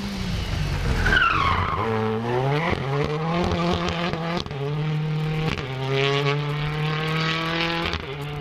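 Rally car on a special stage: tyres squeal briefly about a second in, then the engine revs climb steeply as the car accelerates away and hold high and fairly steady.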